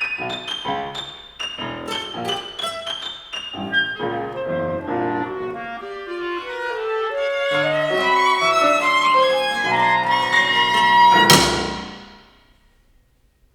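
Contemporary chamber ensemble of clarinet, violin, double bass, guitar and piano playing. Short struck chords come first, then overlapping held notes that grow louder, ending in a loud accented stroke about eleven seconds in that rings away to silence.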